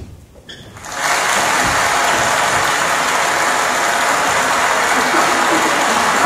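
Theatre audience applauding, starting suddenly about a second in and holding steady as a dense crackle of clapping.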